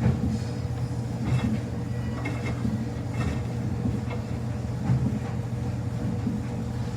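Samsung washing machine running on quick wash: a steady low hum and rumble from the motor and turning drum, with a few short knocks.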